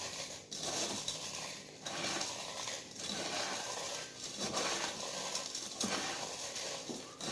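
Doritos tortilla chips being crushed into fine crumbs: a dry crunching in repeated strokes, broken by short pauses about once a second.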